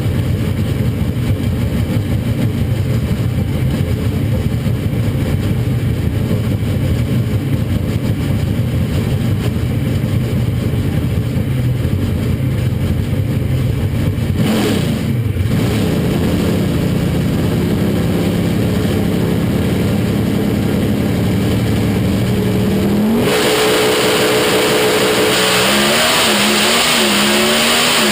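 Drag-racing truck engine idling with a rough, heavy rumble, then held at raised revs on a steady note. About 23 s in it launches at full throttle, and the engine note climbs, dropping briefly at each gear shift.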